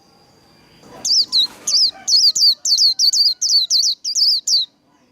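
White-eye (vành khuyên) singing a fast run of short, high, downward-sweeping notes, about four a second, starting about a second in and stopping shortly before the end.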